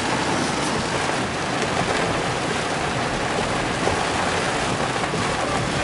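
Steady rain and wet-road noise heard inside a moving car, a constant even hiss.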